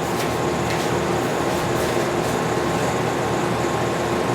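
Steady mechanical running with a hiss and a few faint ticks from the Cessna U-3B's air-powered landing-gear retraction system. The system is drawing on its compressed-air supply while the gear hangs up and fails to retract.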